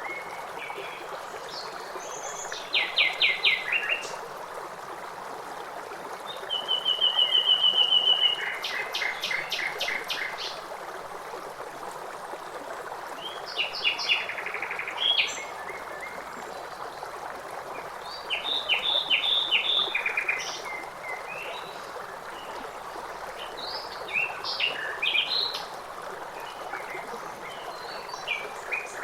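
Songbirds singing in short phrases of rapid repeated notes, including one fast even trill about seven seconds in, over the steady rush of a flowing stream.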